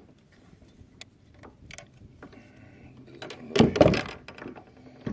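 Knocks and clicks of gear and a catfish being handled on a kayak, with a loud clattering burst about three and a half seconds in.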